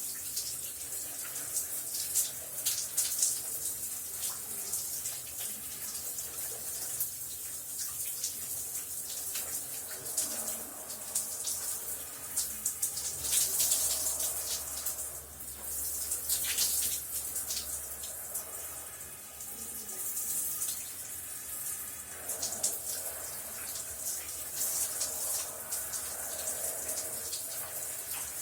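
Shower running: a steady hiss of spraying water with irregular louder splashes.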